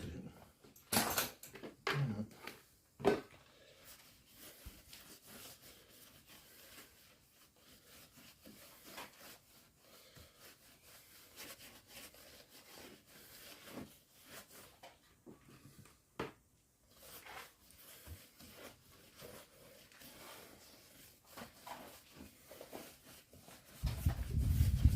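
Faint rubbing and handling of an inflated rubber inner tube as soapy water is worked over it to find a puncture, with a few sharper knocks in the first three seconds. A loud, low rumbling thump comes near the end.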